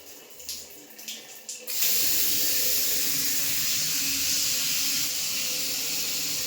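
A few light splashes and clicks, then about two seconds in a tap is opened and water runs steadily into a basin.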